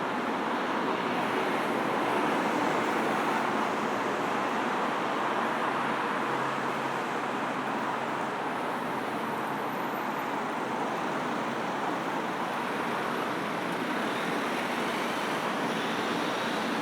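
Steady wash of road traffic on a busy city street, a continuous even noise with no single vehicle standing out.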